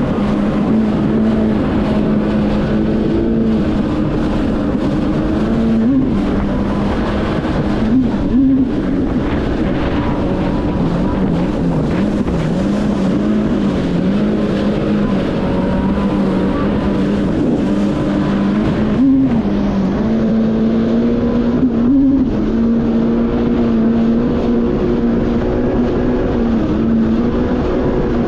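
Yamaha VX Cruiser H.O. WaveRunner's four-stroke engine and jet drive running at steady high speed over rushing water and wind noise. The engine note briefly jumps up in pitch several times, then settles.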